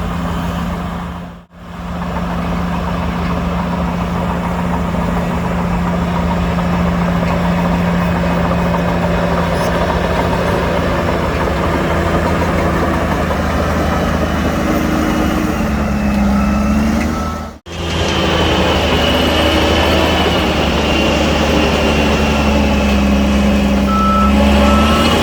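Diesel engines of heavy earthmoving machinery (bulldozer and dump truck) running steadily under load, rising in pitch a couple of times. The sound cuts out sharply twice, and a reversing beeper starts repeating near the end.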